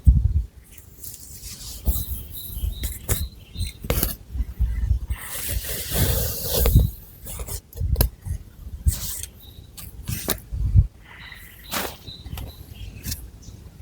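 Long fingernails scratching through thick long hair and over the scalp, close to the microphone: irregular short scratches and crackles, with a longer rustling sweep about five to seven seconds in.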